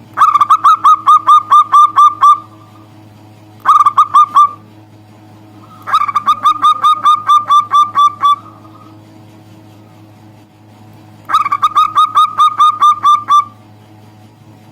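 Zebra dove (perkutut) calling in four bursts of quick, evenly repeated short cooing notes, about four or five notes a second. The first, third and fourth bursts last about two seconds each; the second, shorter one comes about three and a half seconds in. A steady low hum runs underneath.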